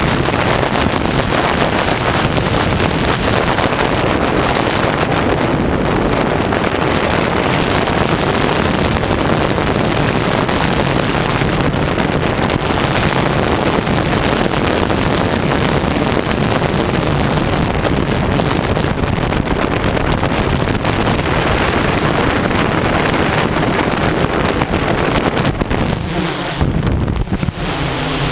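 Strong wind buffeting the microphone, mixed with the steady drone of a DJI S1000 octocopter's eight propellers in flight. Near the end the wind eases for a moment and the propellers' steady hum comes through more clearly.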